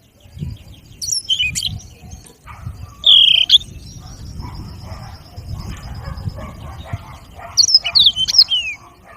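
Mozambique canary (yellow-fronted canary) singing. Loud bursts of sweeping high notes come about a second in, again around three seconds, and near the end, with a thin held note and softer twittering between. A low rumble lies underneath.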